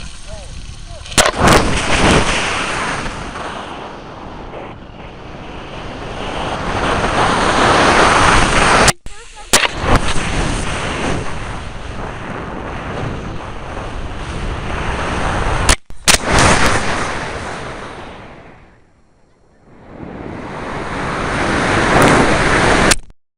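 Water rocket launches and flights: a loud rush of air that swells and fades over several seconds at a time. It is broken by a few sharp cracks and abrupt cuts.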